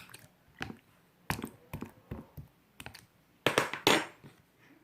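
Clear slime being squeezed and pressed by hand, giving a string of sharp clicks and little popping crackles from trapped air, loudest in a dense burst near the end.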